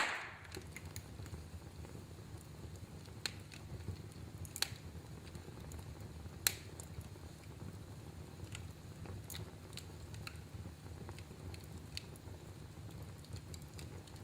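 Wood fire in a fireplace crackling: one loud, sharp pop at the start, then scattered smaller snaps and pops over a low, steady rumble.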